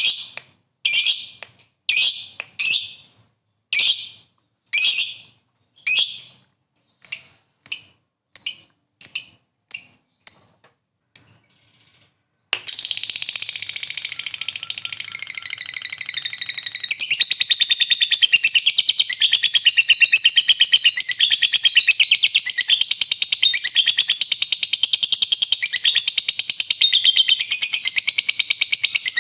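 Lovebird calling: a string of sharp, shrill calls that come faster and shorter over the first twelve seconds. It then switches suddenly to one long, unbroken rapid chatter, the prized long 'ngekek' trill of an aroused lovebird.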